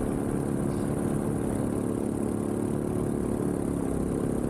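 Vittorazi Moster 185 single-cylinder two-stroke paramotor engine and propeller running in flight, a steady drone at constant pitch.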